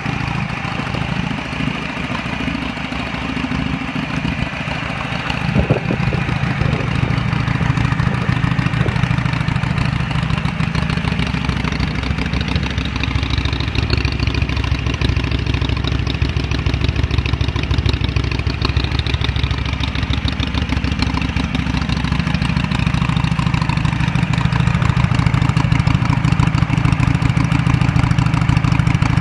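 Harley-Davidson Sportster 883N Iron's air-cooled V-twin idling steadily through North American-spec mufflers with the baffles punched out to 12 mm. There is a brief sharp sound about six seconds in, after which the idle is a little louder.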